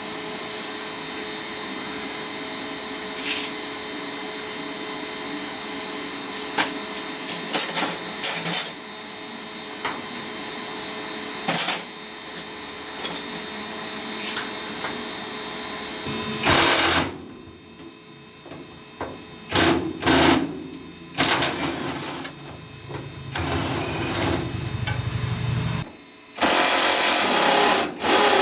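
An electric power tool runs steadily for about sixteen seconds, then runs in a string of short bursts.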